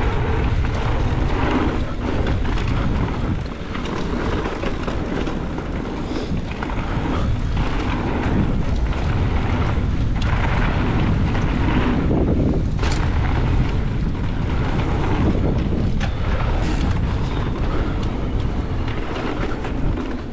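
Wind rushing over the microphone during a mountain bike ride on a dirt trail, with scattered knocks and rattles from the bike over bumps.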